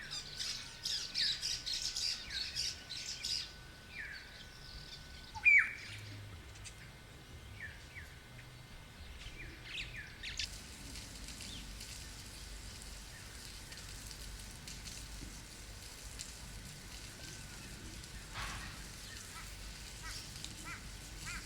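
Wild birds calling: a flurry of quick high chirps over the first few seconds, one loud sharp call about five seconds in, and scattered calls until about ten seconds in. After that there is only a faint steady hiss.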